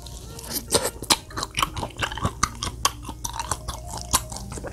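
Close-miked chewing of firm raw chicken breast sashimi: wet mouth clicks and smacks, several a second.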